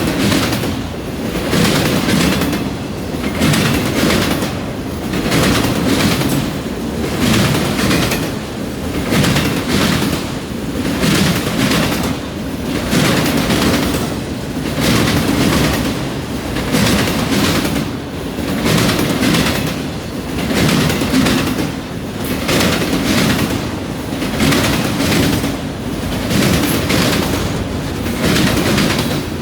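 Freight cars of a long train rolling past, steel wheels clacking over the junction switch and rail joints. A cluster of clacks comes about every two seconds, one for each car going by.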